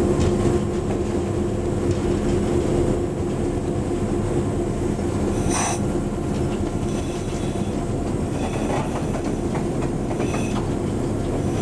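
A moving train: a steady engine drone with rail and wheel noise, and a brief high hiss about five and a half seconds in.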